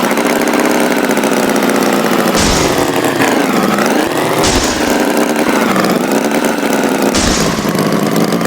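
Tractor engine running, its pitch dipping and rising again like revving, with three short bursts of noise over it.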